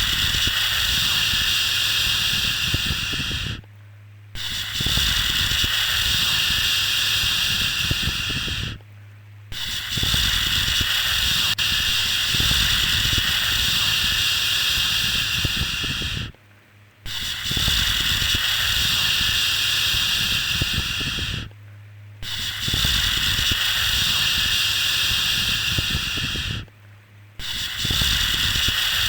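Long, steady 'shhh' shushing sounds, each lasting four to seven seconds, separated by brief pauses of about half a second, with a low hum under each shush.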